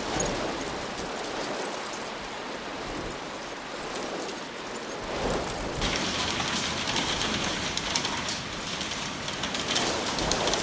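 Hail pelting down, a dense patter of many small hits on surfaces. About six seconds in the sound changes abruptly to a brighter, denser clatter.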